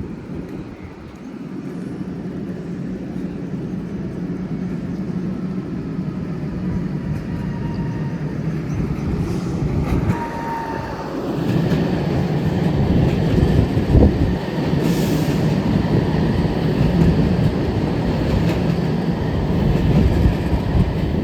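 A steady low rumble, getting louder about eleven seconds in, with a short thin squeal just before.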